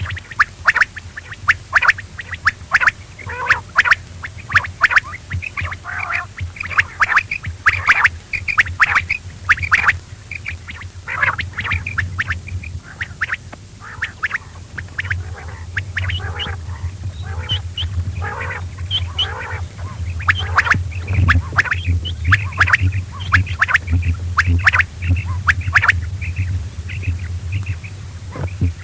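Quail calling: a rapid, continuous run of short, sharp calls repeated many times over, over a steady low hum.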